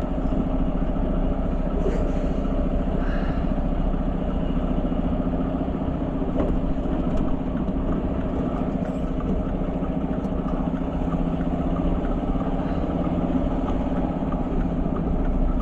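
Mack semi-truck's diesel engine running steadily at low revs.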